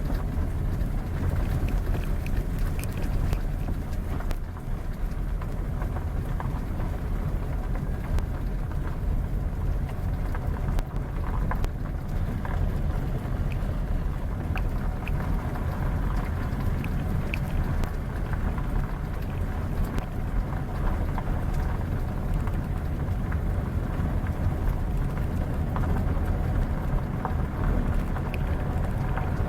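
Steady low rumble of a vehicle on the move: engine and road noise, with a few faint ticks.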